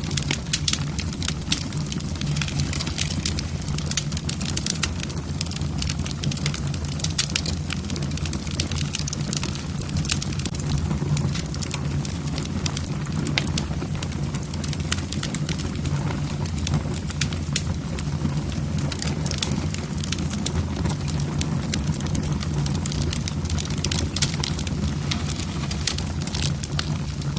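Logs burning in a fireplace, crackling: many sharp pops and snaps over a steady low rumble.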